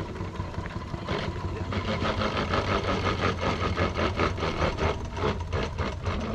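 Coal-fired scale live-steam locomotive chuffing: a regular run of exhaust beats starts about a second in and quickens a little as it works, over a steady low hum.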